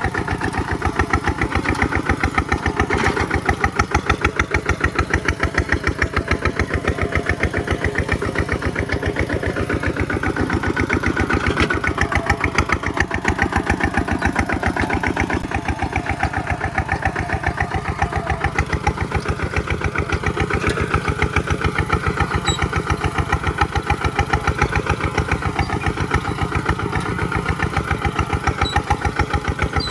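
Kubota single-cylinder diesel engine of the RT/ZT series running steadily, with fast, even firing beats.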